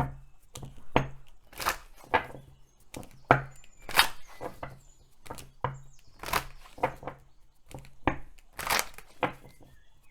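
Deck of oracle cards being shuffled by hand: irregular sharp snaps and rustles of card against card, about one or two a second, while a card is worked loose from the deck.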